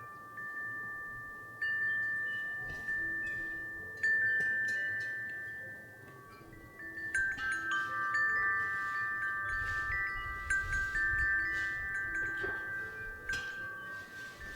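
Wind chime ringing in the breeze: long, ringing tones struck at irregular moments, a few at first and then many overlapping from about halfway through. A low rumble of wind comes in for a few seconds near the end.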